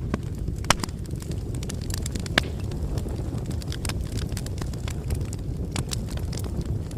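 Bonfire crackling: a steady low rumble of burning with irregular sharp crackles and snaps, two of them louder pops within the first few seconds.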